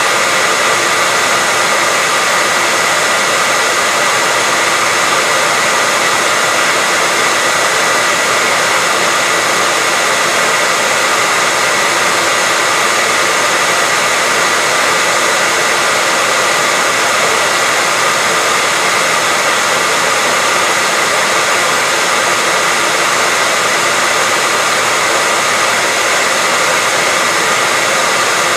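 Electric hairdryer running steadily: a constant rush of blown air with a steady high whine from its fan motor.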